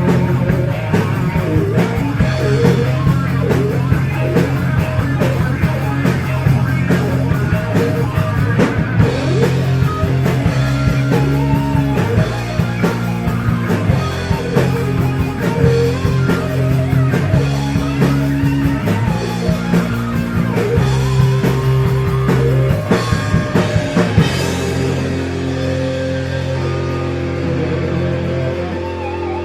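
Heavy metal band playing: electric guitars over bass and a drum kit, in a continuous loud passage.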